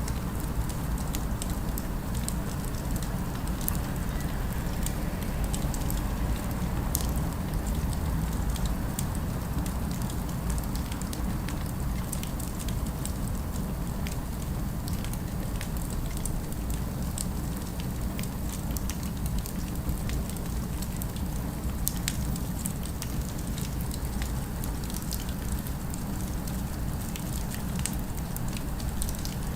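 Fireplace fire crackling, with scattered sharp pops and snaps over a steady low rumble.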